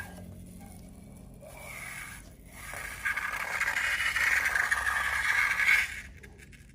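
Scraping and rustling from slime and balloon material being worked, faint at first and louder from about three seconds in, fading near the end.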